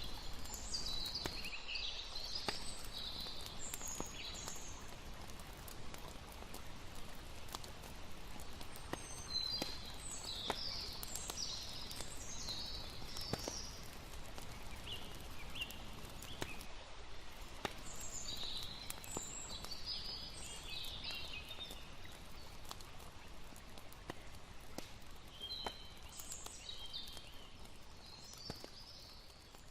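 Campfire crackling, with scattered pops over a steady hiss, while clusters of high chirping calls come every several seconds. The whole soundscape fades down near the end.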